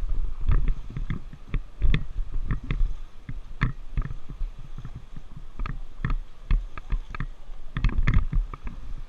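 Paddles splashing and knocking irregularly in river water around an inflatable raft, over a constant low rumble on the microphone.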